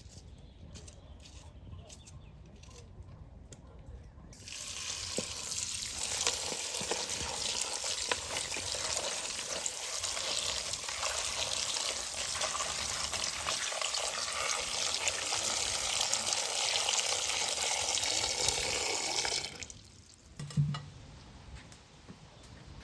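Water running in a steady stream, starting suddenly about four seconds in and cutting off suddenly near the end.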